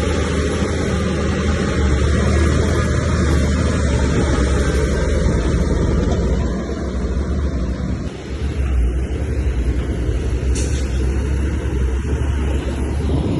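Heavy diesel earthmoving machinery running with a steady, loud low rumble, dipping briefly about halfway through.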